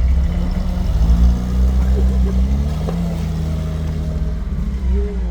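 Off-road vehicle's engine running hard under load, its revs rising and falling as it works forward through a difficult stretch.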